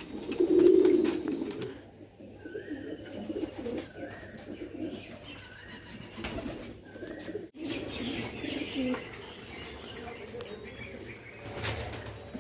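Domestic pigeons cooing over and over, the loudest coo about a second in, with a few short, higher chirps in between.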